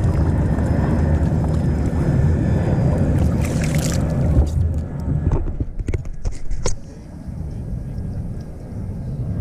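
Wind rumbling on the microphone, with water moving around a kayak. About four seconds in there is a splash, then a run of sharp knocks and drips, after which the sound turns quieter and duller.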